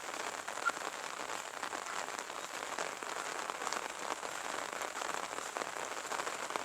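Light rain falling steadily, a dense patter of many small drops.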